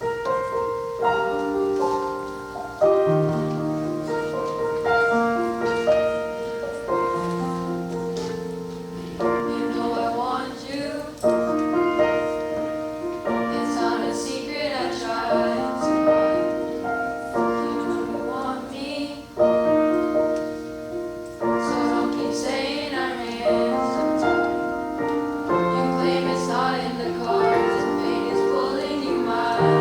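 A piano plays the accompaniment, and from about nine seconds in a middle school choir sings over it.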